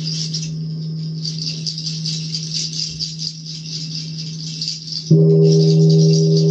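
A hand rattle is shaken steadily over the sustained low hum of a ringing singing bowl. About five seconds in, a singing bowl is struck and rings louder with several steady tones.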